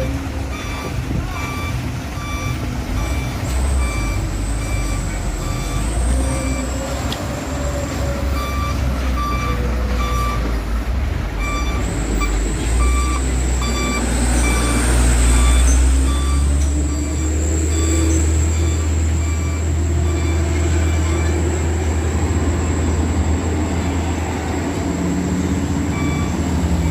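Truck engine running hard and steady under load, with a reversing beeper giving short repeated beeps and a high steady whine joining a few seconds in.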